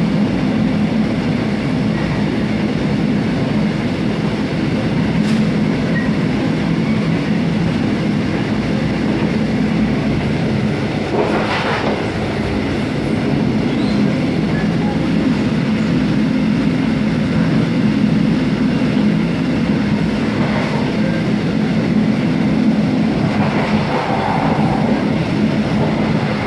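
Mugunghwa-ho passenger coach running at speed, heard from inside the car: a steady rumble of wheels on rail with a low hum, and a brief louder rush of noise about halfway through.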